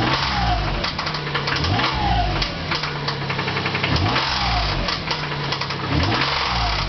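Nissan VG-series V6 revved in four short blips, each rising and falling in pitch, with a regular knock running through it. This is connecting-rod knock, which the owner thinks is probably on cylinders 3 and 5, with next to no oil pressure at the crank.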